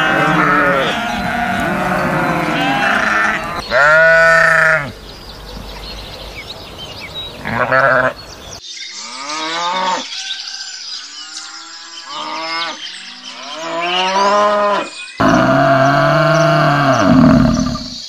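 Sheep bleating: a run of short calls from several animals, with two abrupt cuts between clips and a quieter stretch in the middle.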